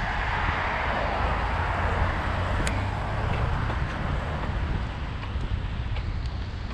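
Wind buffeting the microphone during a bike ride, a steady low rumble with a hissing swell in the first couple of seconds. A single sharp click comes a little before the middle.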